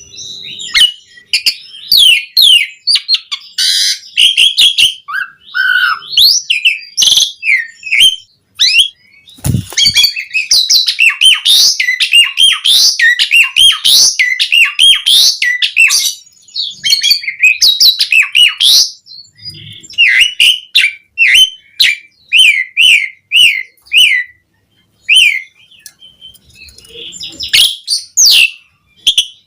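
Asian pied starling in full song: long, rapid runs of varied chirps, whistles and upswept notes, broken by a few short pauses. A single dull thump sounds about nine and a half seconds in.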